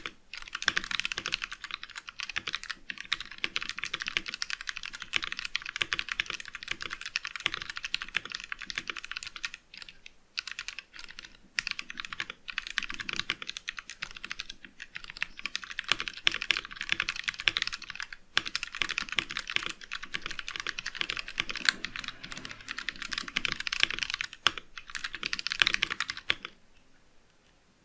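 VX5 mechanical keyboard with Outemu Brown tactile switches being typed on fast and continuously, a dense run of key clicks with a few short pauses, stopping near the end.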